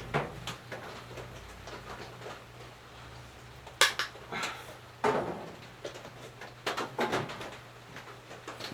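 Garage workbench handling noises while fetching and cutting a length of fuel hose: a few sharp knocks and clatters of tools and parts, over a steady low hum.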